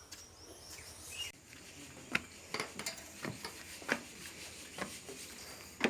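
A series of light, sharp taps at an irregular pace, starting about two seconds in, with roughly seven over the last four seconds.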